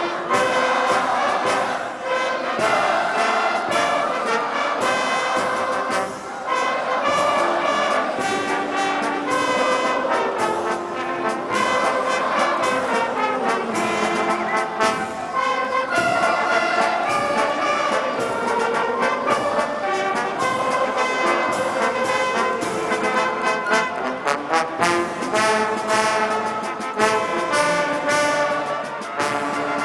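Brass band music playing continuously, with many held notes.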